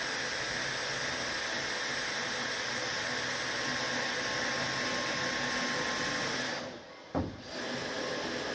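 Power drill running steadily as it pre-drills a screw hole, cutting off about six and a half seconds in, followed by a brief knock.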